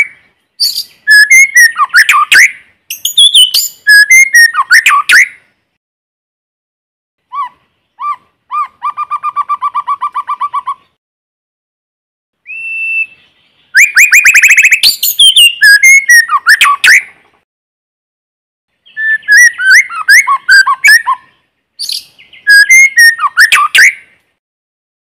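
White-rumped shama singing: loud, varied whistled phrases of rising and falling notes, separated by short silent pauses. Near the middle comes a fast run of about a dozen repeated low notes, then a single held whistle.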